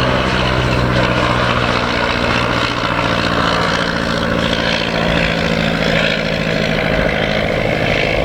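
The piston engine and propeller of a de Havilland DH-51 vintage biplane droning in flight. Its steady engine tone fades after about five seconds, leaving a rougher rushing noise.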